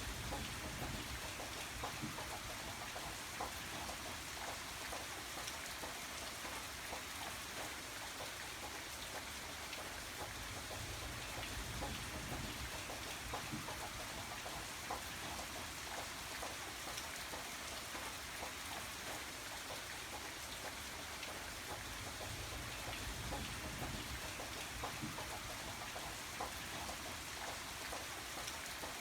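Steady rain falling, with many separate drops ticking on a surface over an even hiss of rainfall and a soft low rumble underneath.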